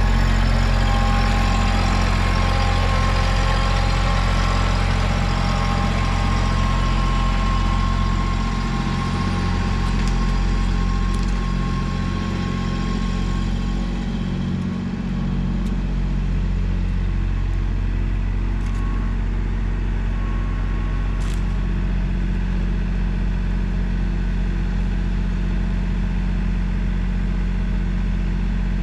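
A large engine running steadily at an even speed.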